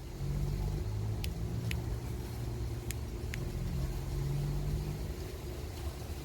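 Car engine running steadily with a low hum. Four short, sharp clicks come in the first half.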